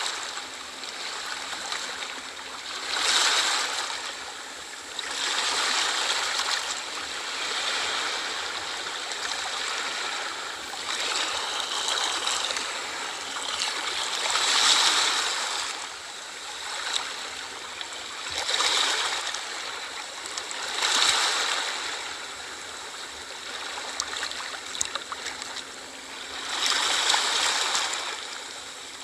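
Sea waves washing in on a shore: a steady rush of surf that swells up and falls back every few seconds.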